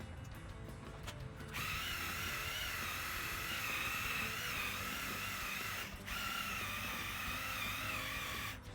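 Small handheld electric buffer running on a plastic car bumper, its motor whine wavering in pitch as it is worked. It starts up about a second and a half in and drops out briefly about 6 s in and again near the end.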